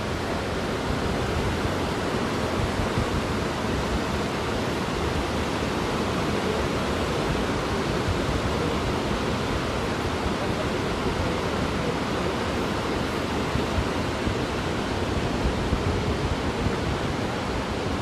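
Steady rushing noise of the Niagara River's whirlpool rapids below, an even wash of water sound that holds without a break.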